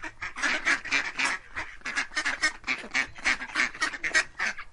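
A flock of white domestic ducks quacking, many short calls overlapping at several a second.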